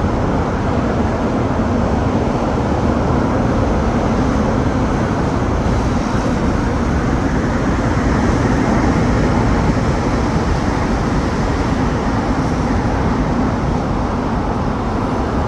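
Steady, loud rumble of passing vehicles, with a faint high whine that comes in about six and a half seconds in and stops near ten seconds.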